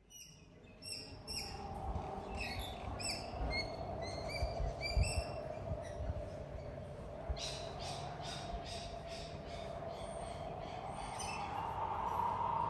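Birds calling: a run of short, repeated notes that come faster about seven seconds in, over a steady hum underneath.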